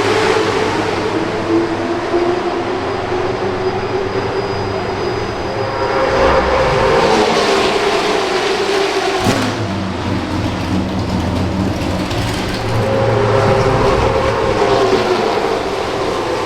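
Late model race cars running laps on the short track, their engines rising and falling in pitch in waves as they come past, with a sharp click about nine seconds in.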